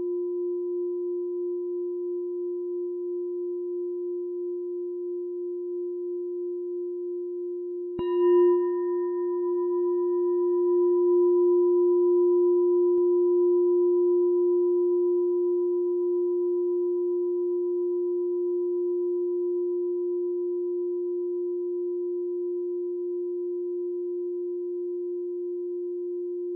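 A meditation bell ringing with a long, steady low hum. It is struck again about eight seconds in, adding brief higher overtones, then the note swells and slowly fades with a gentle wavering.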